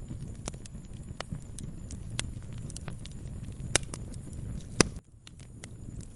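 Wood fire in a fireplace crackling, with irregular sharp pops over a low rumble of flame; two louder pops come close together in the second half. The low rumble cuts out abruptly about five seconds in and slowly returns.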